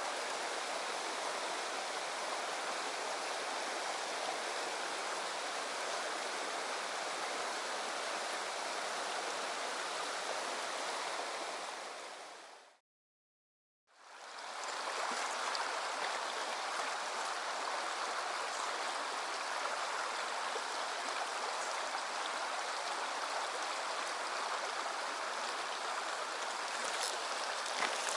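Mountain stream rushing over rocks, a steady wash of water. About halfway through it fades out to silence for about a second, then fades back in.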